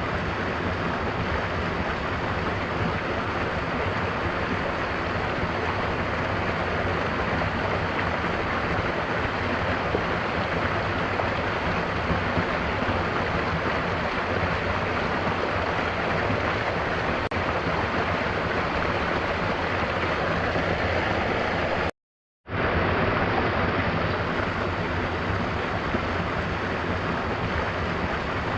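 Mountain waterfall: a steady rush of falling water, broken once, about three-quarters of the way through, by a half-second gap of silence.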